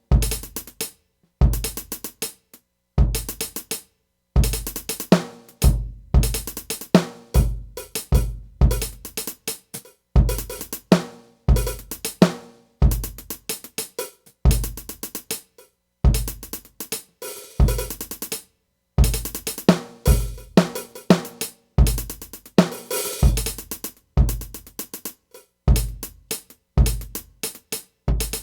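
Drum kit being played: bass drum hits with snare and cymbal crashes in an uneven pattern, broken now and then by short, complete stops.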